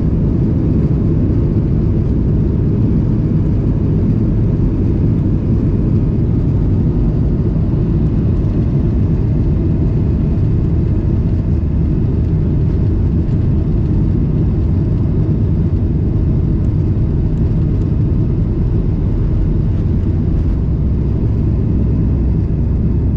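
Steady roar of a Boeing 737 MAX 8's CFM LEAP-1B jet engines and airflow as heard inside the passenger cabin, a deep, even rumble that holds level throughout.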